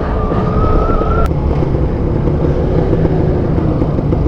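Kawasaki Ninja 150 RR's single-cylinder two-stroke engine running under way, a low even pulsing rumble. For about the first second a steady high tone sounds over it and cuts off with a click.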